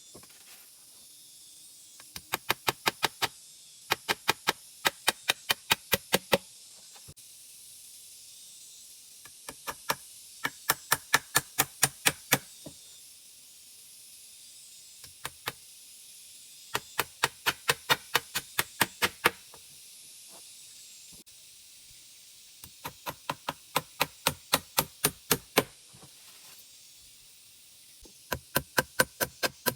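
Runs of rapid, sharp knocks, about five or six a second, each run lasting two to three seconds with short pauses between, over a faint steady hiss.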